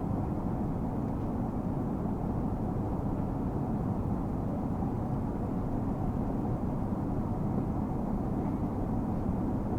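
Airbus A380 cabin noise in flight: a steady, even, low rumble of engines and airflow heard from inside the cabin.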